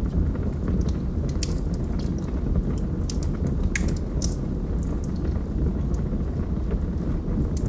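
Wood fire burning in a fireplace: a steady low rumble of flames with irregular sharp crackles and pops from the burning logs, the loudest pops a little before and after the halfway point.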